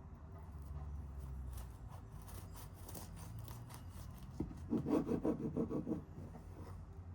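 Close handling sounds of rubbing and scraping with a few light clicks, then a run of quick back-and-forth rasping strokes lasting about a second and a half, the loudest part, a little past the middle.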